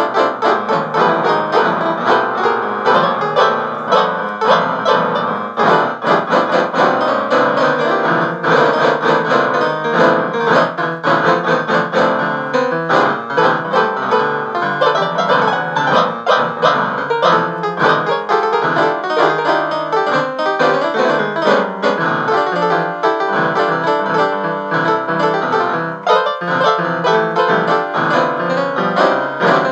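Piano music, a busy stream of notes that carries on without a pause.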